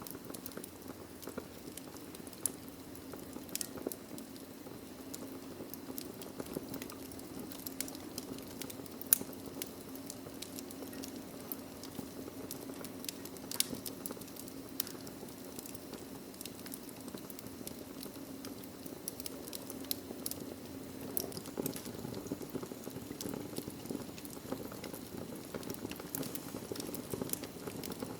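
Wood fire burning in a fireplace: a steady low rushing hiss of the flames with frequent sharp crackles and pops from the burning logs, the loudest pop about nine seconds in.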